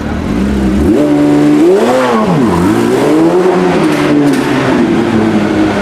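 A supercar's engine revving as the car pulls away: the pitch climbs to a peak about two seconds in, drops sharply, then climbs again and holds.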